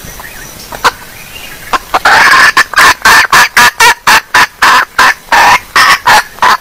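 Female junglefowl clucking: after a few faint clicks, a loud rapid run of clucks starts about two seconds in, at about four a second, and cuts off abruptly at the end.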